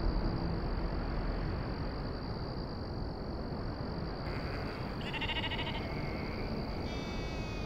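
Sheep bleating twice over a steady outdoor hiss, once about five seconds in and again near the end, the second call wavering.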